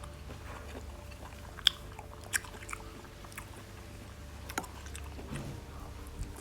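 A person chewing and eating fruit, with a few scattered sharp mouth clicks and smacks over a faint steady low hum.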